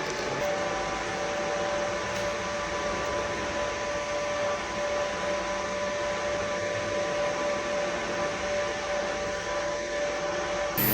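KEPUNI orbital TIG welding system running with a steady airy hiss and a faint steady tone through it.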